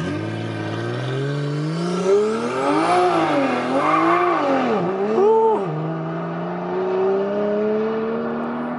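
BMW 3 Series coupe accelerating hard from a drag-strip launch: the engine revs climb, drop at upshifts about three, five and six seconds in, then rise slowly and steadily as the car pulls away down the quarter mile.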